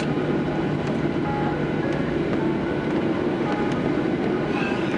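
Steady cabin noise of a jet airliner on the ground just after landing: an even rumble and hum with no breaks.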